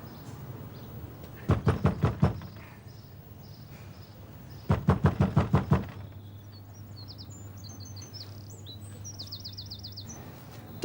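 Rapid hard knocking on a door in two quick bursts of about half a dozen strokes each, a few seconds apart. Small birds chirp afterwards.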